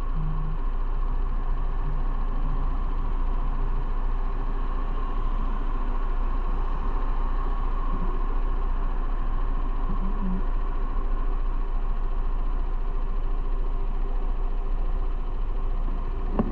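Motorcycle engine running at a steady pitch, with an even rush of road and wind noise.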